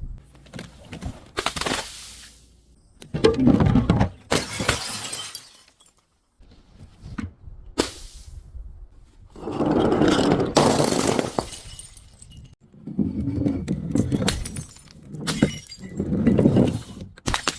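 Glass bottles breaking and being crushed: repeated bursts of shattering and crunching glass, about six in all, the longest and loudest near the middle.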